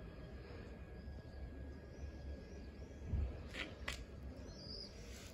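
A small bird chirping repeatedly outdoors, short high calls about once a second, over a low rumble, with two sharp clicks about three and a half seconds in.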